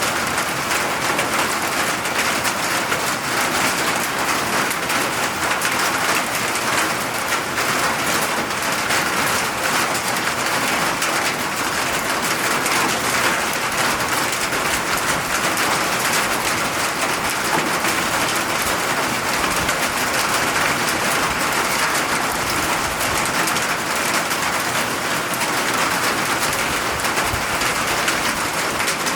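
Steady rain falling and pattering on surfaces, an even hiss with fine drop impacts throughout.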